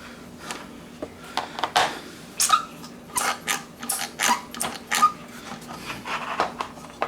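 Irregular light metal clicks and taps, a few with a brief ringing ping, as the small Empire B43 toy steam engine is handled and oiled with sewing machine oil.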